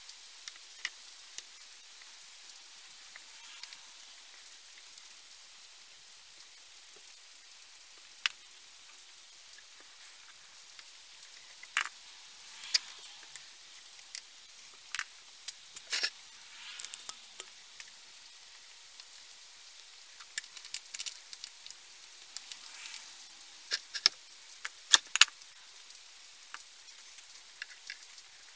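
Irregular small clicks and taps of hand work on parts over a faint steady hiss, coming more often and louder in the second half.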